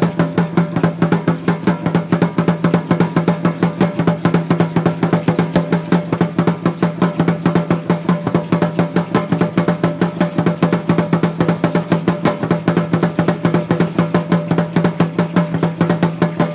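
Aztec dance drumming: a large upright wooden huéhuetl drum beaten in a fast, steady rhythm, each stroke leaving a deep ringing tone under the beat.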